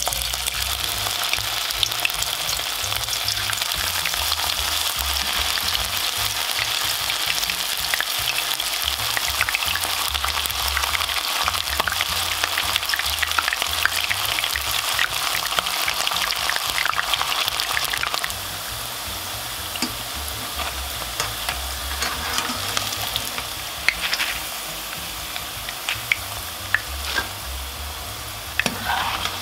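Starch-coated soy meat pieces frying in hot oil in a pan: a dense, steady crackling sizzle. About two-thirds of the way through it turns quieter, with scattered pops.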